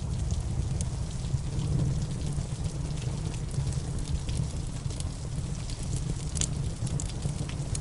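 Steady rain with a low, even rush, and scattered sharp crackles and pops from a wood fire burning in a fireplace.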